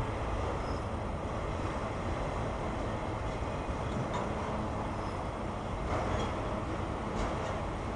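Freight train of autorack cars rolling past: a steady rumble of steel wheels on the rails, with a few faint clicks in the second half.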